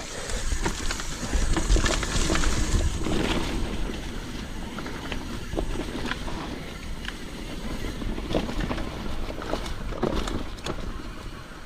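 Mountain bike descending a rough, rooty trail: wind rumbling on the microphone, tyres on dirt, and the bike rattling and knocking as it goes over roots.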